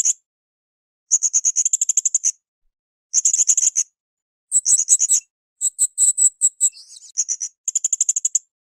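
A srindit (hanging parrot) calling over and over: short bursts of rapid, very high-pitched trilling chirps, each about a second long, with brief pauses between them. A few phrases near the middle are shriller notes.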